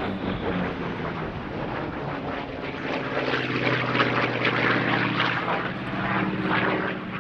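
Grumman F8F Bearcat's Pratt & Whitney R-2800 radial engine and propeller running at display power as the fighter flies by, a steady drone with a rasping edge that swells in the middle.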